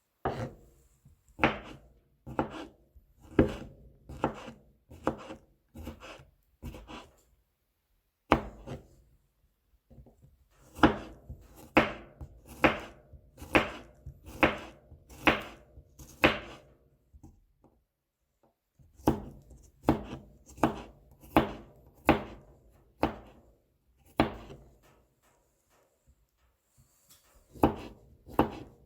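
Kitchen knife mincing whole garlic cloves on a cutting board: runs of sharp chopping knocks, about one to two a second, broken by a few short pauses.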